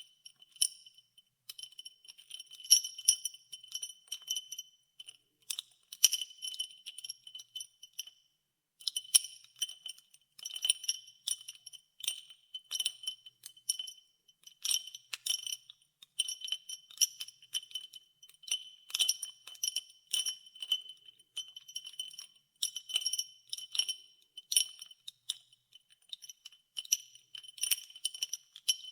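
Ice cubes clinking against the inside of a glass of ice water as it is stirred, rapid clusters of bright, ringing clinks with brief pauses between them, one longer pause about eight seconds in.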